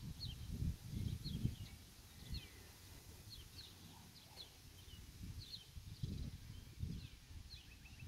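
Small birds chirping in the background: short, high, downward-slurred notes repeating every half second or so. Low rumbling noise on the microphone, loudest in the first second and a half.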